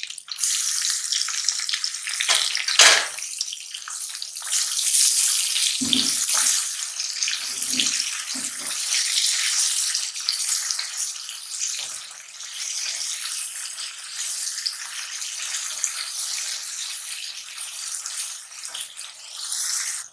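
Chopped tomatoes and green chillies hitting hot oil and frying beef in a karahi, setting off a loud steady sizzle, with a few knocks of a wooden spatula on the pan as it is stirred.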